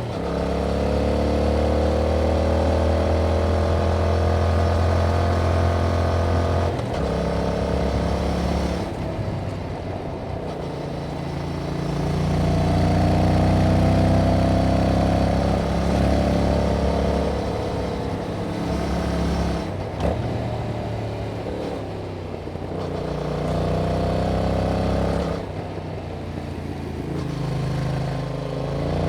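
A 2021 Yamaha MT-07's 689 cc parallel-twin engine running through its stock exhaust while riding. Engine speed rises and falls several times as the rider accelerates, changes gear and eases off, with a short click about twenty seconds in.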